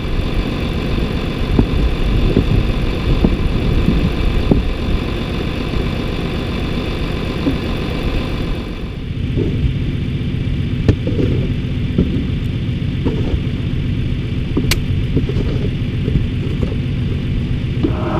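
Farm tractor engine running steadily under the work of feeding. Its note changes about halfway through, and a few short knocks or clunks follow.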